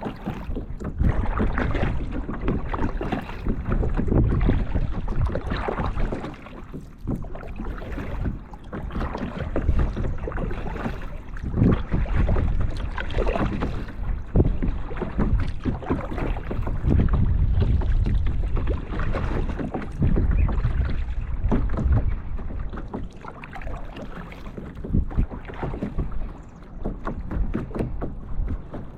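Kayak being paddled: water splashing and dripping from the paddle strokes, with wind buffeting the microphone in uneven gusts.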